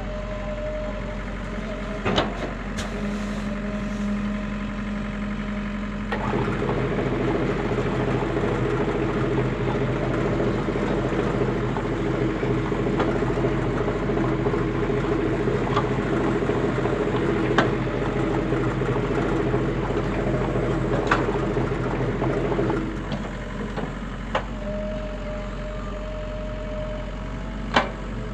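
Diesel engine of a JCB 3DX backhoe loader running. It holds a low idle, then revs up and works steadily under load for most of the middle before dropping back to idle. A few sharp knocks sound over it.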